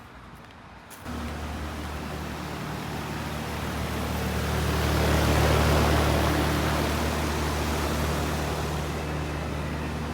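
Outdoor air-conditioning condensing unit running: a steady compressor hum under the rushing air of its condenser fan. It comes in abruptly about a second in, and the rushing grows louder toward the middle.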